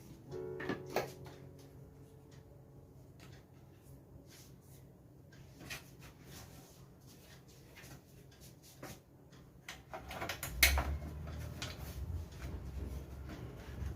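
Scattered clicks and knocks of plastic monitor parts being handled, with one louder knock about ten and a half seconds in followed by a low rumble.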